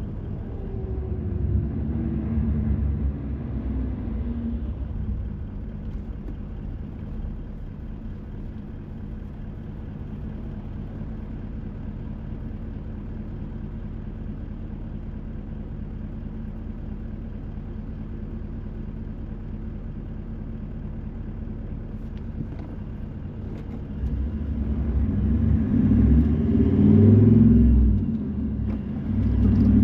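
Car engine and road noise during a drive: the engine note drops in the first few seconds, settles to a low steady hum for most of the stretch, then grows louder with rising engine pitch as the car accelerates near the end.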